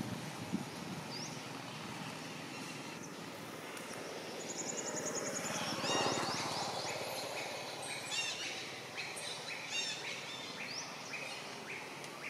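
Small birds chirping and calling over a steady background hiss: a fast high trill about four and a half seconds in, then short rising and falling chirps, and a run of repeated short notes toward the end.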